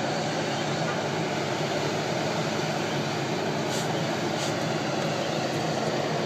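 Steady, even vehicle noise, like a car's road and engine noise, with a couple of faint clicks midway.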